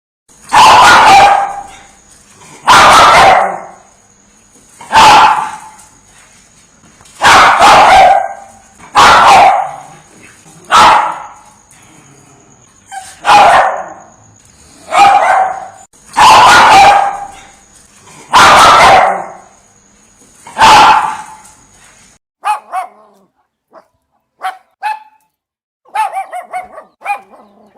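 A dog barking: about eleven loud, full single barks spaced roughly two seconds apart, with a faint steady high tone behind them. About three quarters of the way through, this gives way to shorter, quieter, quicker barks in little clusters, which sound like a different dog.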